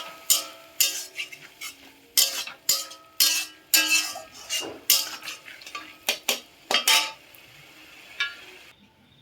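Metal kitchen utensils clanking and clinking against metal cookware: about fifteen sharp, ringing knocks in uneven succession over the first seven seconds, then stopping.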